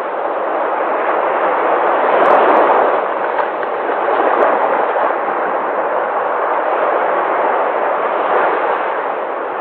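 Sea waves breaking and washing in, a continuous rush of surf that swells a little about two seconds in.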